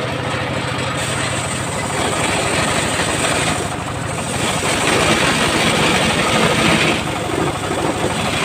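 Engine of a homemade circular sawmill running steadily. A louder rushing hiss swells midway and drops off about seven seconds in.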